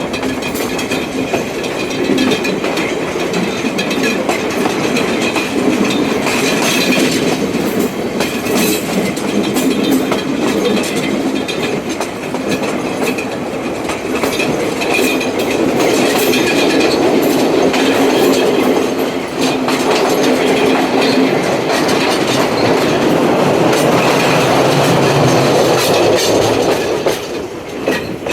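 Passenger train running along the rails, heard from on board: a steady loud rumble with the clickety-clack of wheels over rail joints, easing off near the end.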